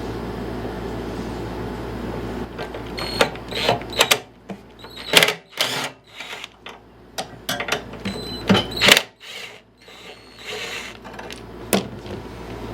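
Hand tools and small metal engine parts clicking and clanking in an irregular string of sharp knocks, as work goes on at a push mower's engine. A steady low hum sits under the first few seconds and drops away about four seconds in.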